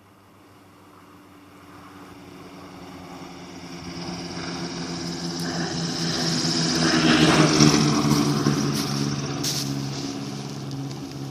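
Che-22 Korvet amphibious seaplane's piston engine and propeller on its landing approach, growing louder as it comes closer, loudest about seven to eight seconds in, then fading as it moves away.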